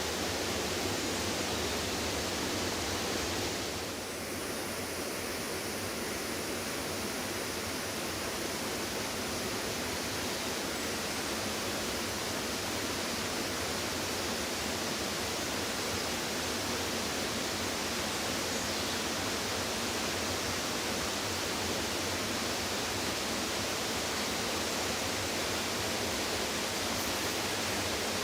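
Steady rush of floodwater pouring over and through a flooded lake's outfall, an even continuous noise with a brief dip about four seconds in.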